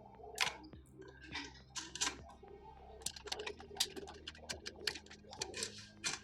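Irregular light clicks and taps, a few a second, over a faint steady low hum.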